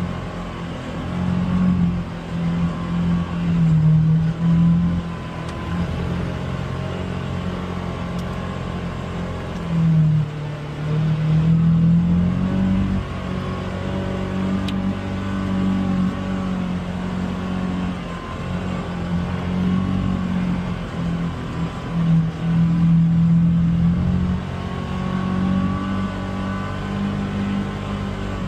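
Polaris Xpedition UTV engine running under throttle on a rough trail, revving up and easing off again and again, with a surge every few seconds.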